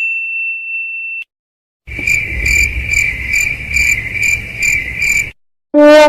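Crickets chirping in a steady pulse, about two chirps a second, with a low rumble under them, played as a stock sound effect. Before it, the ringing tail of a bell-like ding cuts off, and near the end a low brass horn note begins.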